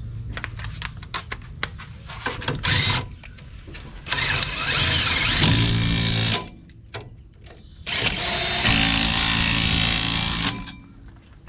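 A handheld power tool runs in two bursts of about two seconds each, driving bolts on a front brake assembly. Before the bursts come scattered light clicks and knocks.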